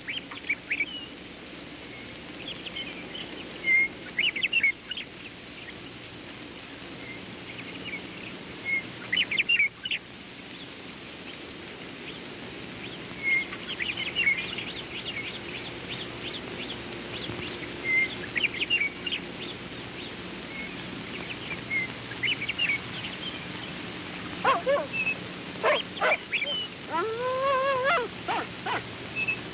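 Small birds chirping in short, scattered calls over a steady low hum. Near the end come a few louder, lower calls.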